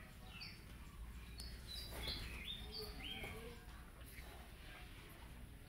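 Faint bird chirps: a run of short, high calls, some dropping in pitch, in the first three and a half seconds, over a low steady background rumble.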